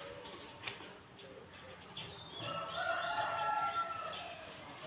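A bird gives one long, drawn-out call lasting about two seconds, starting a little over two seconds in.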